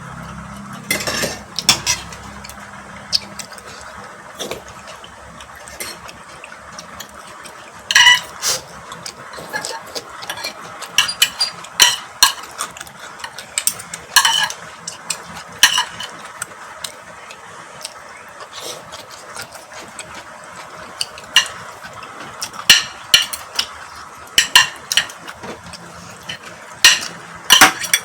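Cutlery clinking and scraping against bowls and plates during a meal: irregular sharp clinks, some spaced a few seconds apart, some in quick clusters.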